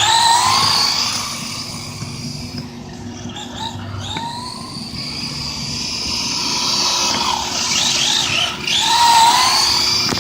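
Stock brushed electric motor and gear drive of an RC short course truck whining, rising and falling in pitch as the throttle is worked. It is loudest at the start and again about nine seconds in.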